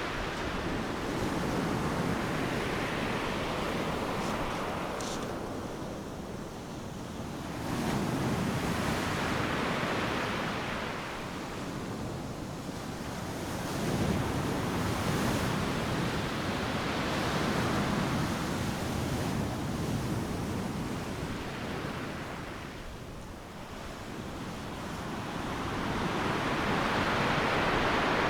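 Ocean surf: waves breaking and washing up the beach one after another, a steady rush that swells with each break and ebbs between them, with some wind noise on the microphone.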